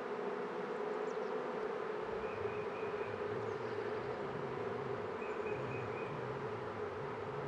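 Honeybees buzzing steadily around an opened hive during a frame inspection, with a lower buzz joining about two seconds in.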